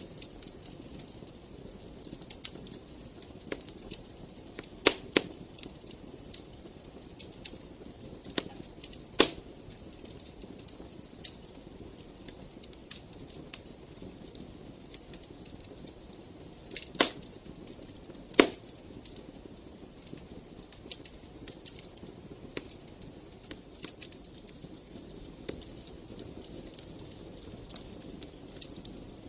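Wood fire crackling in a fireplace: frequent small snaps and pops over a low steady hiss, with a few much louder pops scattered through, two of them close together past the middle.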